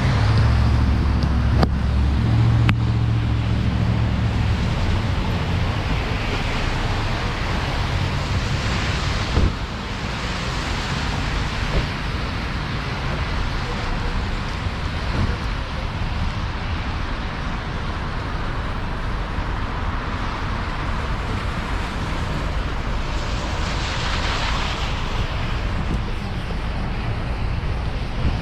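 Chevrolet Malibu driving on a rain-wet road: a steady wash of tyre and wind noise, with a deeper rumble in the first few seconds and a few brief knocks.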